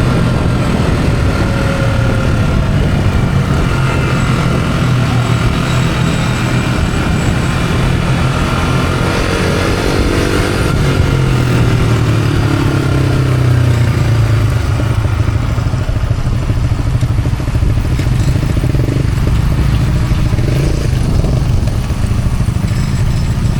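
Yamaha R15's single-cylinder engine on its stock exhaust, running under way with wind rushing past. The engine pitch climbs and then drops off around the middle as the throttle changes.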